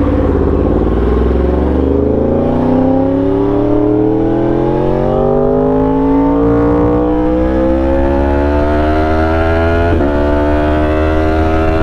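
2018 Yamaha R1M's crossplane inline-four engine pulling away under load. Its pitch dips briefly at the start, then rises slowly and steadily for about ten seconds as the bike gathers speed, with a short wobble in pitch near the end. The exhaust is loud.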